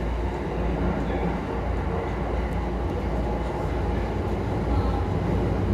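Takasaki Line commuter train at the station platform, a steady low rumble with no sharp events.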